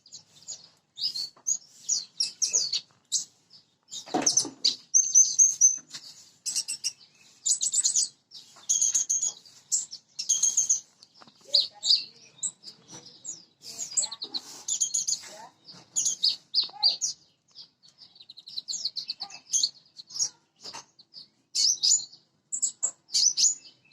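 Small songbirds chirping and trilling in quick, high-pitched phrases with short pauses between them. A fuller, lower knock or bump comes about four seconds in.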